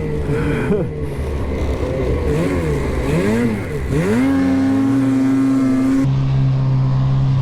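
Ski-Doo 850 two-stroke snowmobile engine revving up and down with the throttle, its pitch swinging several times, then held at a steady high pitch from about four seconds in. About six seconds in the sound changes abruptly to a steady, lower engine note.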